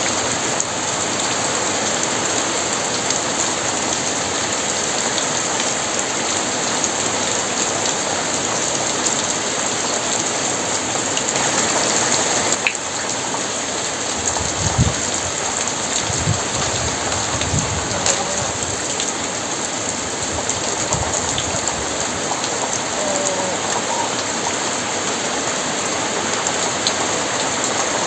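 Very heavy rain pouring steadily, with low rumbles of thunder a little after halfway through.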